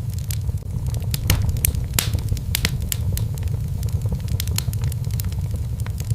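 Wood fire in a fireplace burning with a steady low rumble and many irregular sharp crackles and pops.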